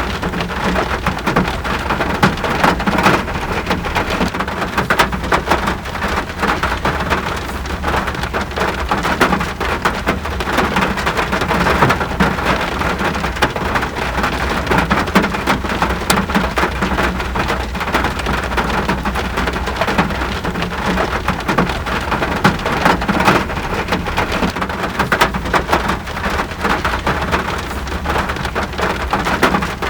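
Steady, heavy rain falling, a dense patter of drops hitting surfaces, with an even low rumble underneath.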